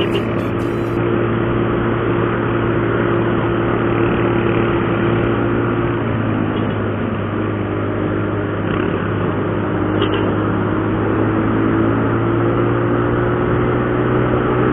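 Motorcycle engine running at a steady cruising speed, with road and wind noise, heard from on the bike. The engine note shifts slightly about six seconds in.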